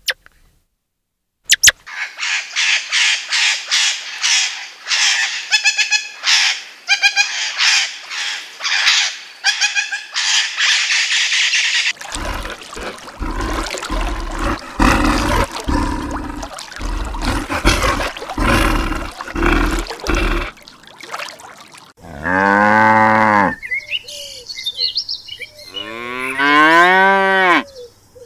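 Cattle mooing: several long calls, each falling in pitch, through the last six seconds. Before them come about ten seconds of rapid high chirping, then a rougher, noisier stretch with deep thumps.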